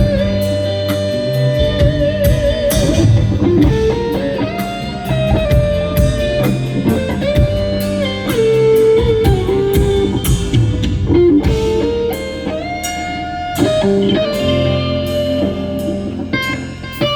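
Live rock band playing a slow instrumental ballad. A lead electric guitar sings sustained melody notes with vibrato and slides over bass guitar and drums, with steady cymbal hits.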